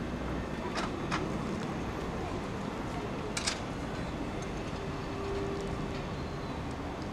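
Train running on the track: a steady rumble with a few sharp clicks in the first few seconds and a faint steady tone briefly after the middle.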